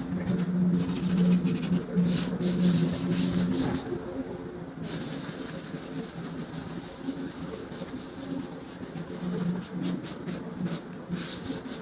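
Drywall being sanded: repeated scratchy sanding strokes, one long continuous stretch in the middle, over a steady low hum.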